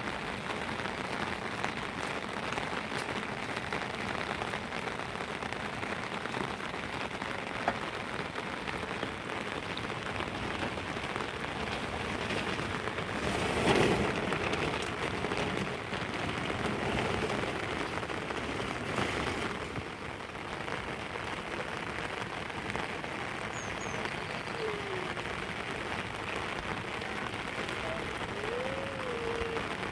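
Steady heavy rain falling and pattering on surfaces, with a louder swell lasting about a second around the middle.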